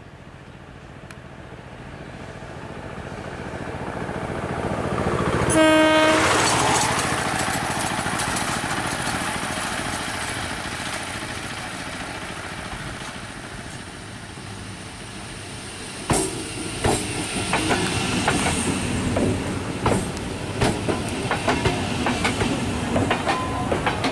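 Indian Railways ICF-rake electric multiple unit (EMU) train approaching and growing louder, sounding one short horn blast about six seconds in. From about sixteen seconds on its coaches pass close by with sharp, repeated wheel clatter over the rail joints.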